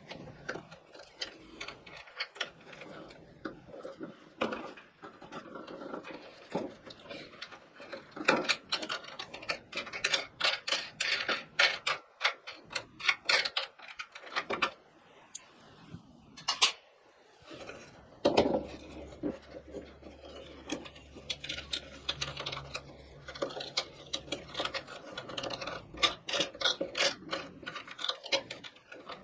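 Hands working on a kerosene heater during a wick change: a run of irregular clicks, knocks and rubbing as its parts are handled and taken apart.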